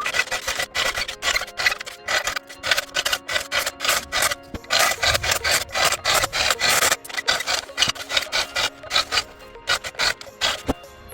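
Hand tool rasping into wood in quick back-and-forth strokes, about four a second, widening an opening in a log, over background music.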